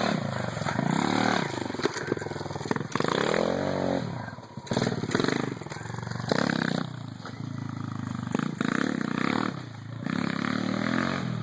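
125cc minibike engine revving up and down as the rider works the throttle around a dirt track, the pitch climbing and falling repeatedly and dropping off twice as the throttle is closed.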